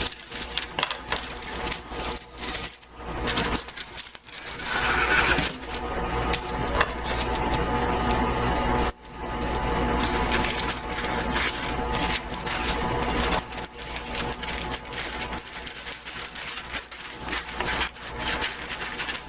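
Stand mixer motor running steadily underneath crisp rustling and cutting of parchment paper, with a few brief pauses in the paper noise.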